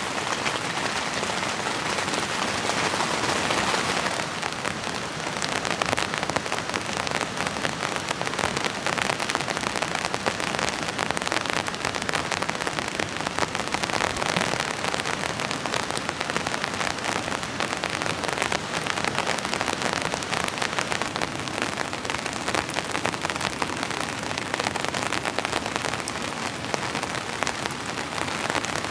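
Heavy rain on a tent's fabric, heard from inside: a steady, dense patter of drops.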